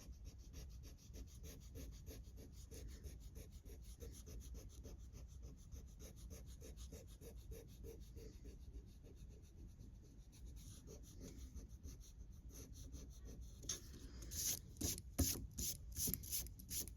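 Pencil eraser rubbing back and forth on paper, erasing pencil guide lines in quick, even strokes. The strokes get louder and harsher near the end.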